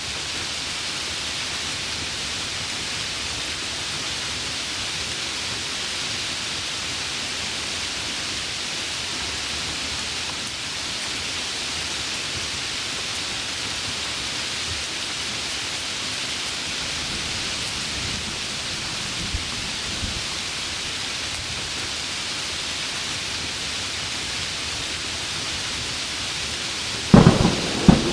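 Heavy rain falling as a steady, even hiss. A couple of faint low thumps come past the middle, and near the end a sudden loud clap of thunder breaks in with a rumble.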